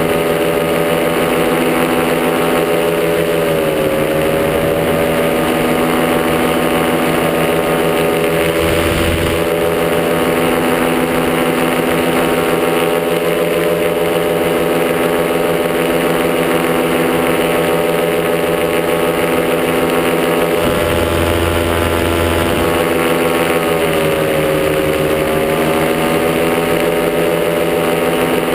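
Top80 paramotor's single-cylinder two-stroke engine running steadily in flight, its pitch dipping briefly and coming back up twice as the throttle eases off and reopens. Gusts of wind rumble on the microphone now and then.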